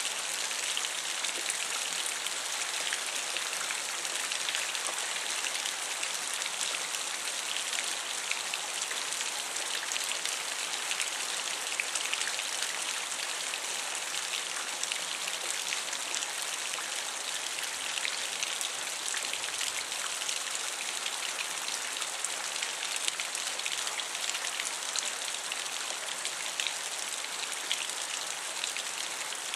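Thunderstorm rain falling steadily: an even hiss with many small drop impacts ticking through it.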